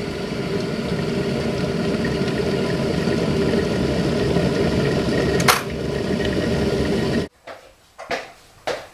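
Electric kettle (Tefal, stainless steel) heating up, a steady rumbling hiss that slowly gets louder, with a sharp click about five and a half seconds in. The sound cuts off abruptly about seven seconds in, and a couple of short knocks follow near the end.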